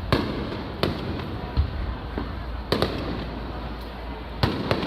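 Aerial firework shells bursting in a series of about six sharp bangs and booms, spaced irregularly, two of them in quick pairs, over a steady background hum.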